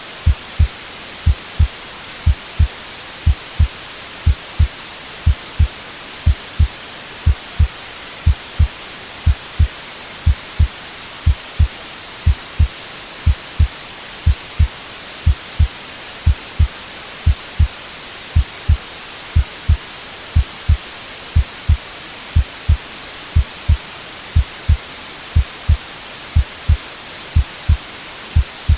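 A recorded heartbeat, a low double thump about once a second, over a steady white-noise hiss.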